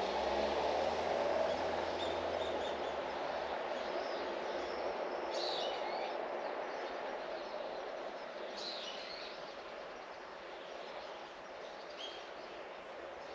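A low rumble of a passing vehicle, fading steadily into the distance, with a few short bird chirps about five and nine seconds in.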